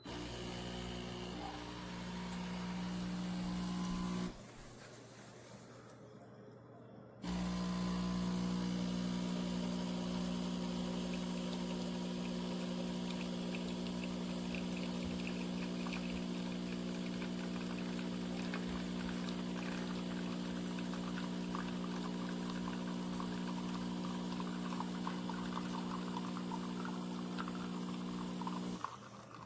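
De'Longhi Dedica Duo espresso machine's vibration pump humming steadily for about four seconds, stopping, then starting again about seven seconds in and running for some twenty seconds before cutting off, with liquid pouring as it runs.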